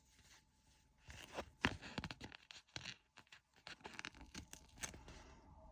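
Faint crinkling, tearing and clicking of small plastic drill bags and sticker labels being handled and peeled while kitting up a diamond painting, starting about a second in as scattered short crackles.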